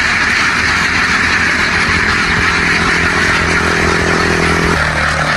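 A motor engine running steadily, its pitch dropping once near the end, over a continuous dense din.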